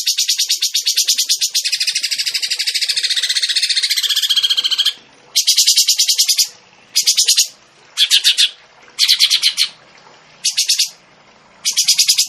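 Songbird giving a fast, dense, high-pitched rattling trill for about five seconds, then breaking it into short rattling bursts of under a second, repeated about once a second.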